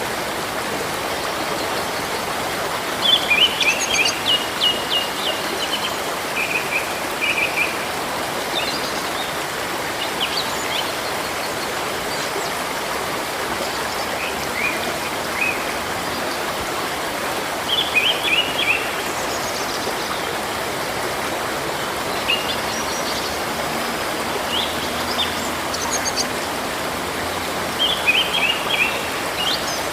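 Steady rush of a flowing stream, with small birds chirping over it in short clusters of quick, high notes that recur every few seconds.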